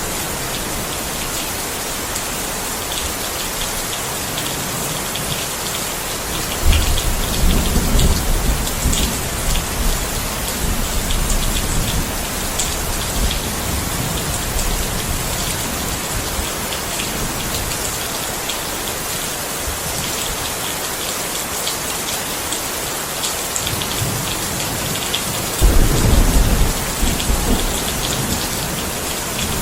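Steady rain, with individual drops ticking sharply on a surface. Two low rumbles of thunder come in, one about seven seconds in and one near the end; each starts suddenly and lasts two or three seconds.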